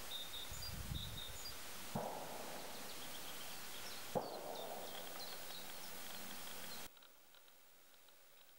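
Outdoor ambience: a small bird's short high chirps repeating over a steady hiss, with two sharp clicks about two and four seconds in. Near the end the background drops suddenly to near silence.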